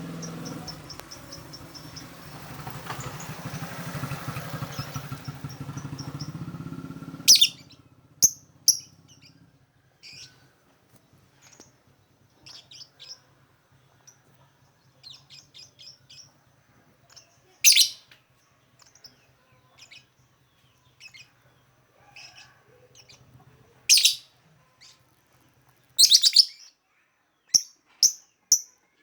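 Lovebird chirping: sharp, loud single chirps scattered through, between quieter bursts of rapid chattering trills. For the first seven or so seconds a broad rumbling noise runs underneath, then stops.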